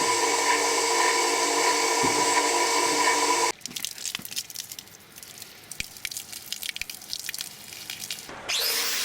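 A power tool running at a steady speed with a constant whine, cut off abruptly about three and a half seconds in. Quieter irregular clicks and small knocks follow, and music starts near the end.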